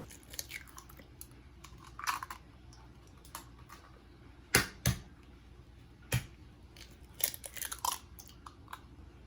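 Scattered light clicks and knocks in a small room, the two loudest close together about halfway through.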